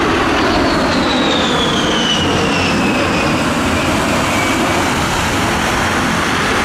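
Jet aircraft flying past, a loud, steady engine rush with a high whine that falls in pitch as it goes by.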